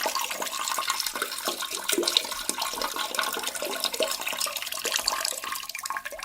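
Rushing, splashing water, a steady gush with small crackling splashes.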